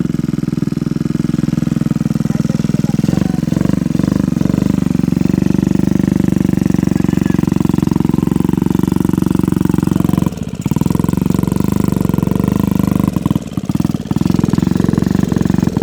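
Homemade mini bike's Honda Activa scooter engine, a small single-cylinder four-stroke, running steadily under way. The drone dips briefly about ten seconds in and breaks up a few times near the end.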